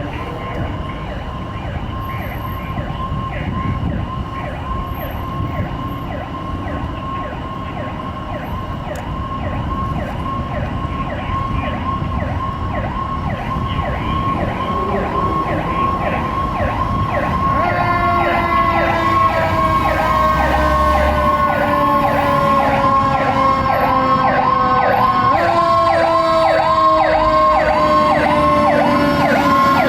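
Fire truck's siren sounding a fast, repeating yelp, growing louder as the truck approaches. About halfway through, a second siren tone joins that slowly falls in pitch, then rises again once near the end.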